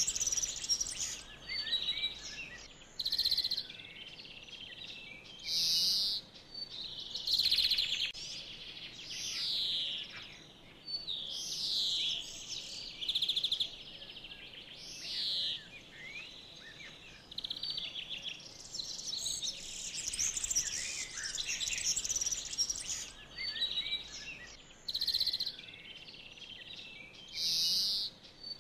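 Several songbirds singing, with chirps and trills coming one after another, about every second or two, with short gaps between them.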